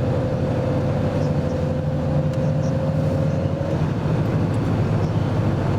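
Car running on the road, heard from inside the cabin: a steady low engine and road hum with a thin steady whine that stops about two-thirds of the way through.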